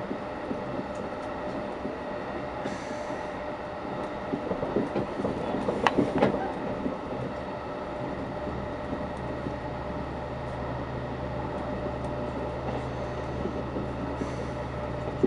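Passenger train running at speed, heard from inside the carriage: steady rumble and rattle of the wheels on the track. A sharp knock comes about six seconds in, and a low steady hum joins a little after halfway.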